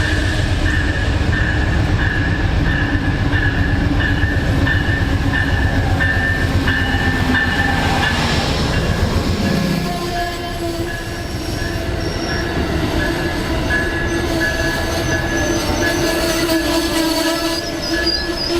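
A train rolling past on the tracks, its wheels squealing against the rails over a steady rhythmic rumble; the rumble eases about ten seconds in while the squeal carries on.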